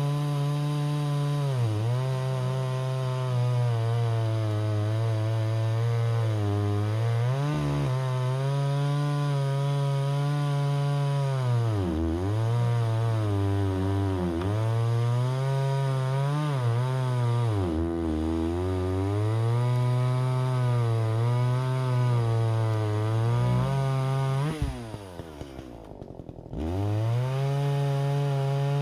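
Two-stroke chainsaw running at high revs while cutting wood, its pitch sagging and recovering several times as the chain bites into the cut. About three-quarters through it drops to idle for about two seconds, then revs back up.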